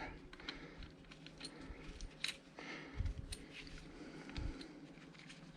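Faint, scattered metallic clicks and taps, with a couple of soft thumps: tractor wheel bolts being handled and threaded back into the hub by hand.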